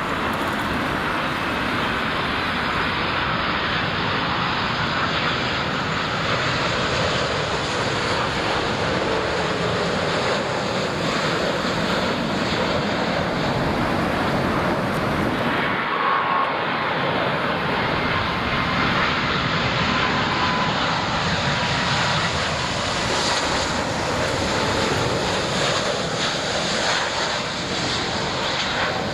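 Jet engines of a Boeing 787-9 Dreamliner airliner passing, a loud steady rush of jet noise with faint high whines gliding slowly in pitch. There is a brief break about halfway through, after which the jet noise carries on.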